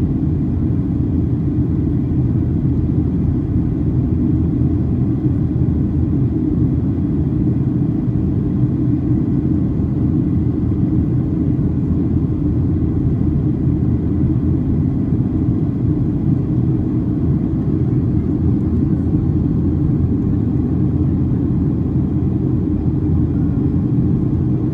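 Cabin noise inside a Boeing 737-800: a steady low rumble of engines and airflow, even throughout with no changes.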